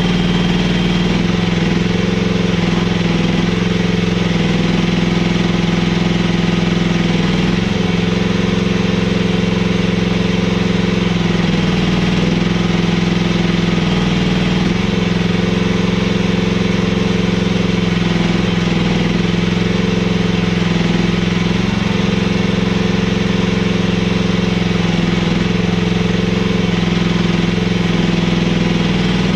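Mini excavator engine running steadily while trenching, its pitch shifting slightly every few seconds as the machine takes load.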